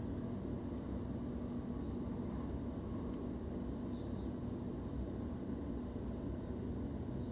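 Steady running noise of a moving electric suburban train heard from inside the carriage: a low rumble with a faint steady hum.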